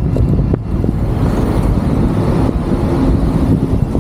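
Road and wind noise from riding an e-bike in city traffic: a steady low rumble with a few light knocks about half a second in.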